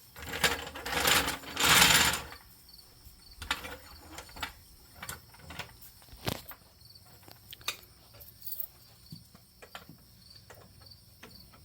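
Jacking work under a pickup truck: a loud scraping rush for about two seconds, then scattered light metal clicks and knocks.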